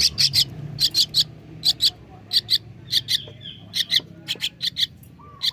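Javan myna nestling begging: short, sharp high calls repeated in quick clusters of two to four, as it is hand-fed softened pellet feed.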